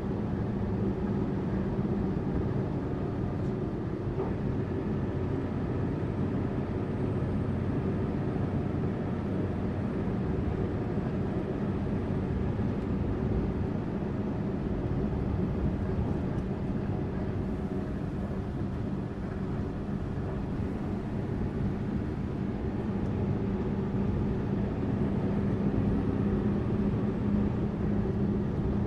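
Tourist coach's engine running steadily with road noise: a constant low hum and rumble. A faint high whistle comes and goes a few times.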